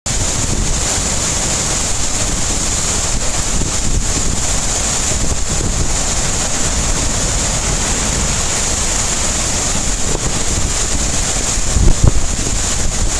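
Hurricane-force wind buffeting the microphone with a low rumble, over a steady high hiss of wind-driven rain. A stronger gust hits about twelve seconds in.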